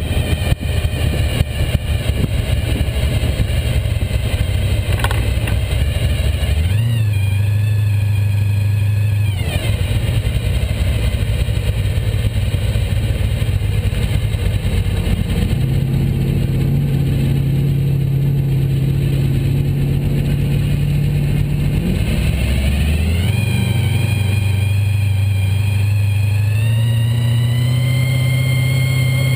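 Open-engined hot rod's engine running loud and steady while driving, its note stepping up and down several times as the car speeds up and slows, and climbing again near the end.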